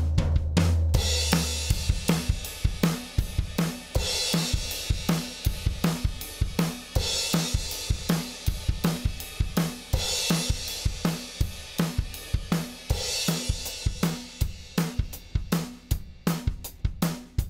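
Recorded drum kit playing a steady groove of kick, snare and hi-hat, with a cymbal crash about every three seconds. A low bass note sounds under the first second or two and then stops.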